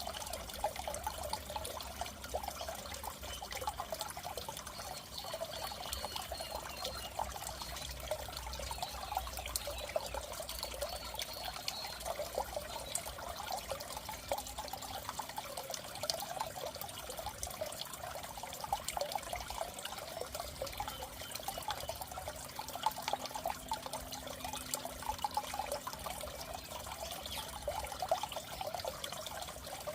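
Steady trickling and bubbling of water in a goldfish aquarium, over a faint low hum.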